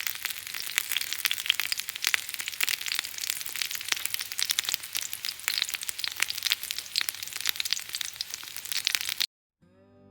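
Gyoza frying in a pan, a dense sizzle full of small pops that cuts off abruptly about nine seconds in.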